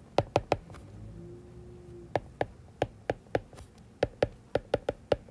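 Quick, irregular taps and clicks of a pen or stylus on a writing surface, several a second, as an equation is written out by hand.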